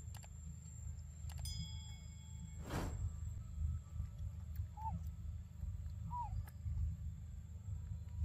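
A bird in the background gives short single call notes that dip in pitch, twice in the second half, over a steady low rumble of outdoor ambience. There is a brief ringing click about a second and a half in and a short rustle near three seconds.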